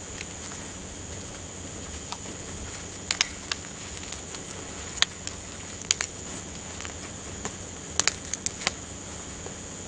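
Wood campfire crackling, with sharp irregular pops coming in small clusters, over a steady high insect chorus.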